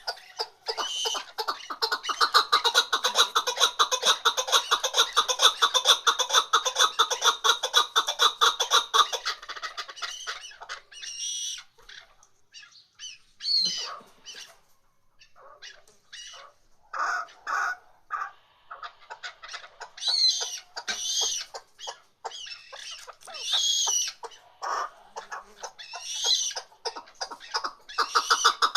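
Chukar partridge calling: a fast, unbroken run of clucking notes for about nine seconds, then scattered shorter calls with a rising and falling pitch, and more rapid clucking returning near the end.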